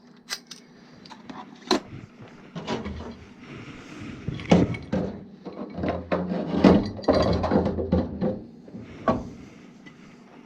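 Irregular clicks, knocks and clatter of hands handling plastic drain fittings and tools on a furnace condensate drain, busiest in the middle, over a faint steady low hum.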